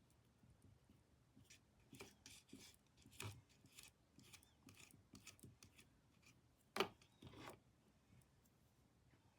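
Faint, scattered scrapes and taps of a painting tool being worked on canvas, with one sharper click a little before the end.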